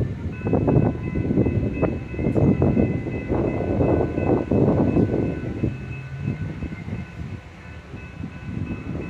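An approaching Metra commuter train, not yet in sight: a low uneven rumble with a steady high ringing held above it, all mixed with gusts of wind on the microphone.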